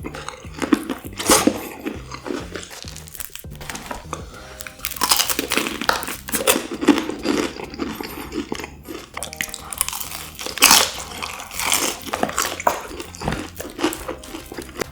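Close-miked eating of Korean fried chicken: a bite now and then gives a sharp crunch, between stretches of chewing.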